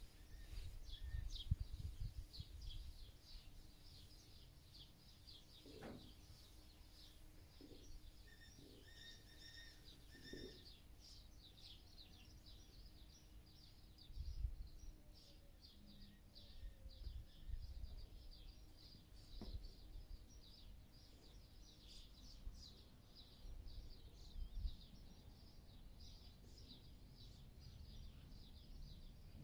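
Faint chirping of small birds, a quick, continuous run of short high chirps, with occasional low rumbles underneath.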